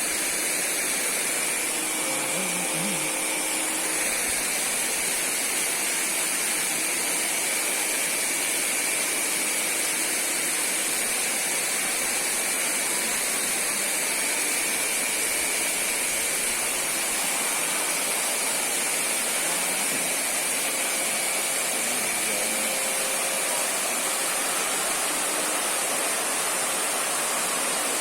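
Steady rushing of a waterfall and river, an even noise that does not change, with a thin steady high tone running through it.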